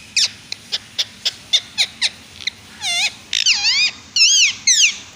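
Indian ringneck parrot calling: a run of short, sharp downward chirps, about two a second, then longer warbling, wavering screeches in the last two seconds.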